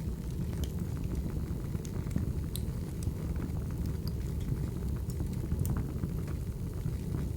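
Crackling wood fire: a steady low roar of burning logs with irregular sharp pops and snaps scattered through it.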